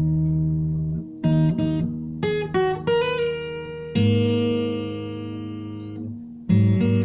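Acoustic guitar playing an instrumental piece. A held chord rings, then a few single notes are picked one after another about a second in. A new chord at about four seconds rings and fades, and sharply strummed chords come in near the end.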